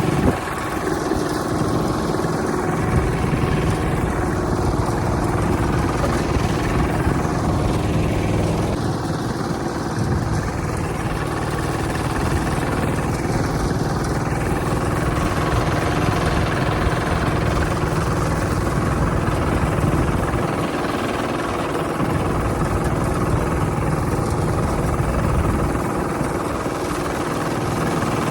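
Hand tractor's engine running steadily, its low drone easing off briefly a few times.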